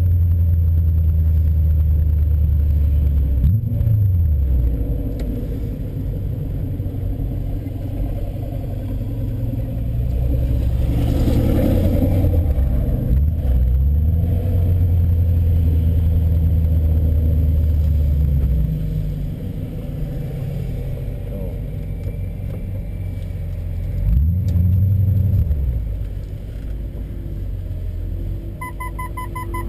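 BMW E39 M5's V8 running at low speed, heard from inside the cabin as a steady low rumble that rises and falls in pitch briefly twice, early and near the end. A short series of electronic beeps sounds just before the end.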